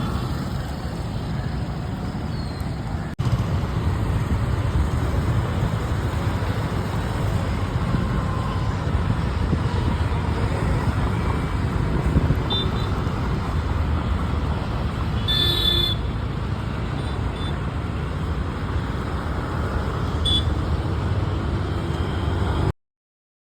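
Steady roadway traffic noise with a heavy low rumble and a brief horn toot about two-thirds of the way in. It cuts off abruptly just before the end.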